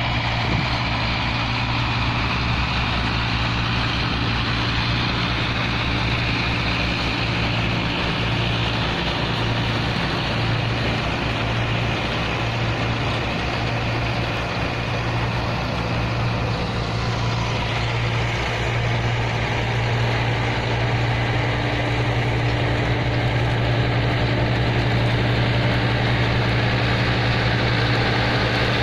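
Tractor diesel engine running steadily while powering a straw reaper. About seventeen seconds in, the machine's sound shifts slightly and a new steady tone joins it.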